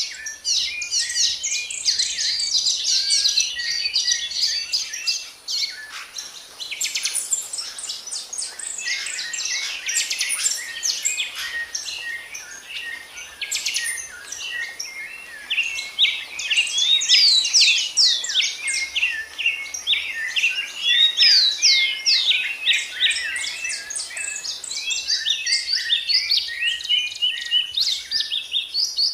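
Many songbirds chirping and singing at once in a dense, continuous chorus of quick, high, overlapping chirps and short trills.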